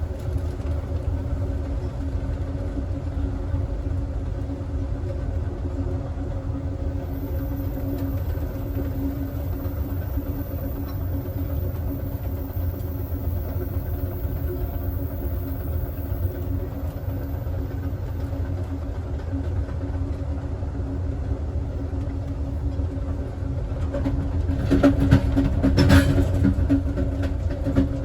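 Passenger train running at speed, heard from the last car: a steady low rumble with a constant hum. About three-quarters of the way through it grows louder with a cluster of clicks and rattles.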